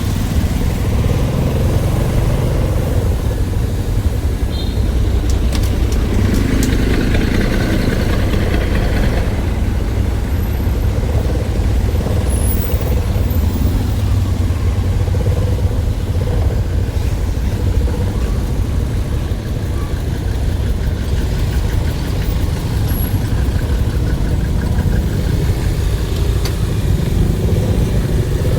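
A motor vehicle running steadily, with a constant low rumble.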